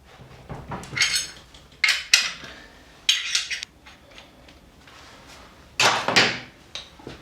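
Irregular metallic knocks and clanks of hand tools and parts being worked, with a scraping rattle about three seconds in. The loudest knock comes about six seconds in.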